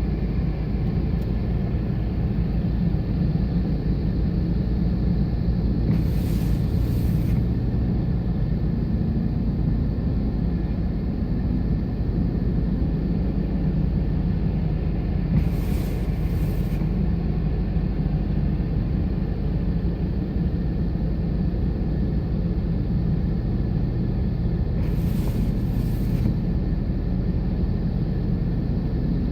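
Blizzard wind on the microphone: a steady low rumble, with three brief higher swishes about nine seconds apart.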